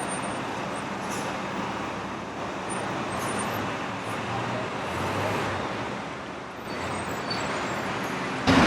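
Steady outdoor street traffic noise: a continuous hum of passing cars with no single standout event.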